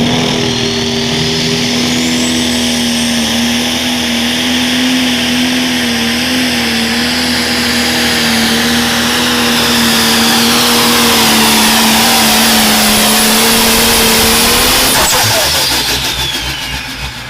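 Pro stock pulling tractor's turbocharged diesel engine at full throttle through a pull, holding one steady pitch with a thin high whistle gliding upward above it. About fifteen seconds in, the engine pitch falls and the sound drops off as the pull ends.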